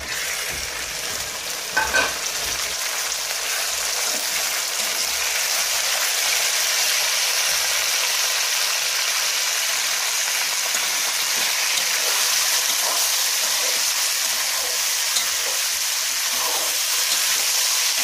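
Raw chicken pieces hitting hot oil with browned onions and whole spices in a large aluminium wok, sizzling loudly. The sizzle builds over the first few seconds into a steady frying hiss. A metal spatula stirs and knocks against the pan, with a couple of sharp knocks about two seconds in.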